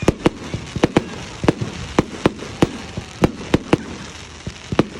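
Fireworks going off at a display: a rapid, irregular run of sharp bangs, about three a second, over a steady background hiss.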